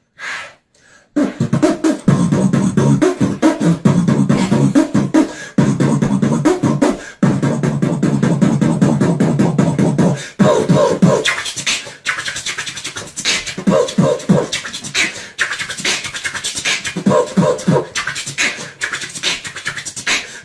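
Beatboxing: a fast, rhythmic run of vocal drum sounds, sharp clicks and snares over deep bass pulses, starting about a second in after a brief pause.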